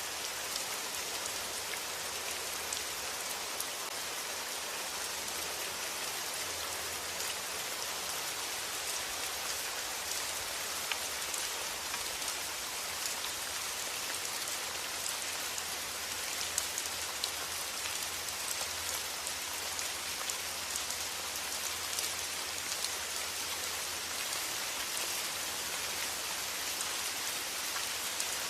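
Steady rain, an even hiss with many individual drops ticking close by, over a faint low hum.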